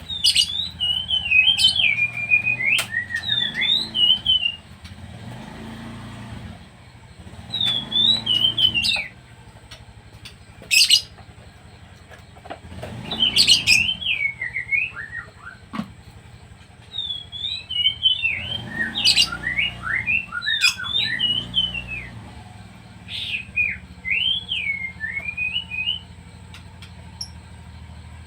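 Pet songbirds chirping and singing in repeated short bouts of quick rising and falling notes, with a few sharp clicks among them. A low, steady hum runs underneath.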